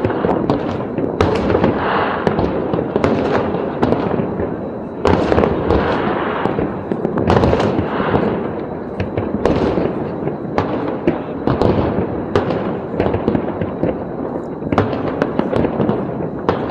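Fireworks display: a dense, continuous barrage of bangs and crackling, growing louder about five seconds in.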